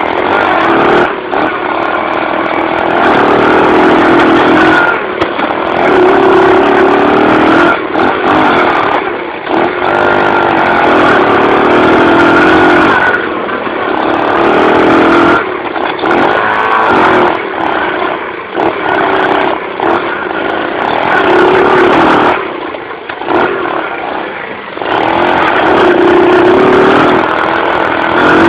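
Dirt bike engine being ridden hard, revving up and easing off again and again every few seconds as the throttle is opened and closed.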